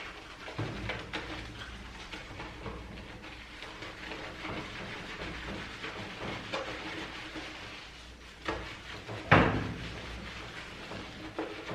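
Water spraying from a handheld shower over a dog during its bath, with two sharp knocks near the end, the second the louder.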